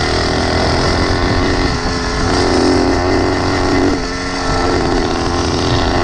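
Small engine of a motorized 20-inch bicycle running under way. Its note rises about two seconds in and drops back about four seconds in.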